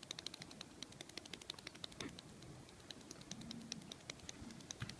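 Seagull's feet pattering rapidly on the ground as it paddles in a 'tap dance': a quick, uneven run of faint, light taps.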